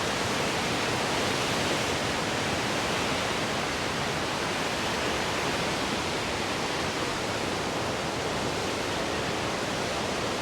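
A waterfall rushing: a steady, unbroken wash of noise with no change throughout.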